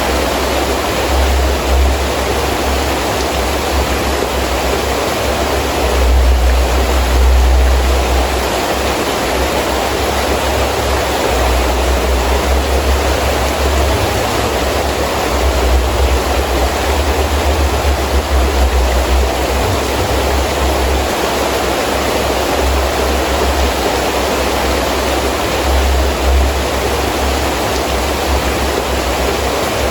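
Heavy rain pouring steadily in strong wind, with a low rumble of gusts that swells and fades, loudest about six seconds in.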